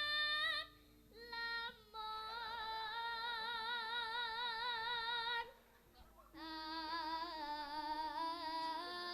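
A young girl sinden singing Javanese tembang, long held notes with wide vibrato in two long phrases with a short break between them.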